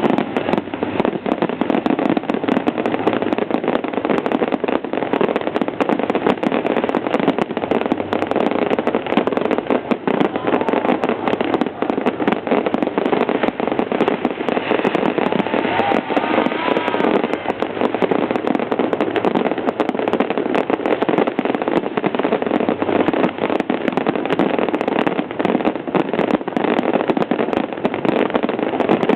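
Fireworks display, with dense, continuous crackling and popping of bursting shells that does not let up.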